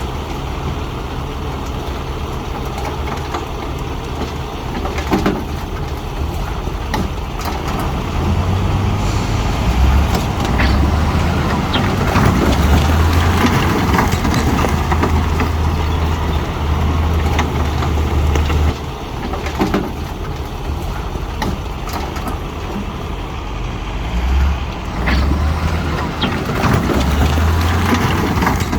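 Heavy diesel earthmoving machinery working, its engine drone swelling under load for several seconds at a time, with scattered clanks and knocks of rock and steel.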